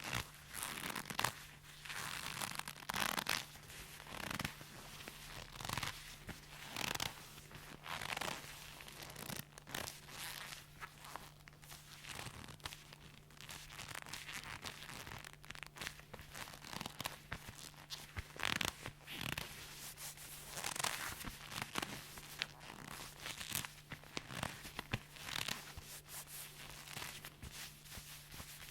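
Leather being handled, squeezed and rubbed, creaking and rustling in irregular strokes of varying loudness, over a steady low hum.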